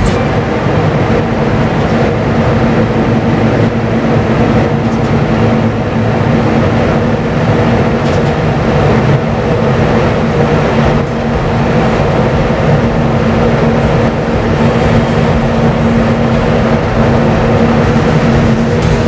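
Steady drone of ship's machinery: a constant low hum with a few fixed tones over an even rumble, unchanging throughout.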